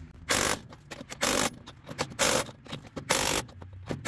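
Cordless impact wrench run in short bursts, about one a second, hammering a truck wheel's lug nuts to final tightness.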